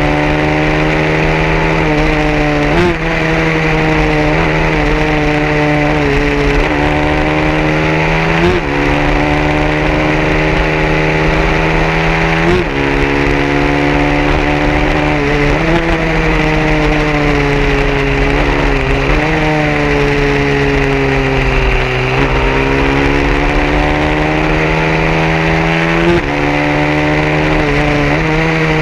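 150cc racing motorcycle engine running hard. Its pitch climbs steadily over two to four seconds, then drops sharply at each gear change, about ten times in a row, over a steady low hum.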